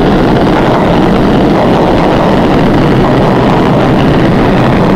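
NYC subway train on the 1 line running through the station: a loud, steady rumble with no letup.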